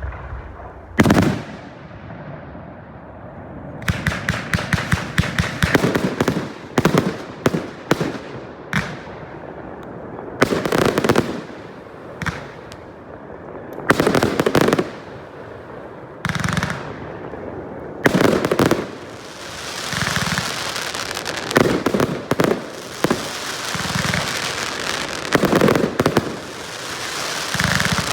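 Aerial fireworks display: repeated sharp shell bursts with rapid crackling in between, growing into a dense, continuous crackle in the second half.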